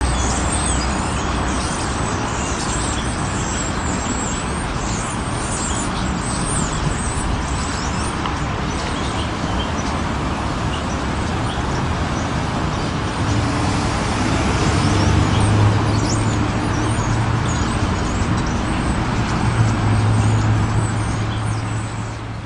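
Steady street traffic noise with small birds chirping high above it; a low engine hum grows louder in the second half.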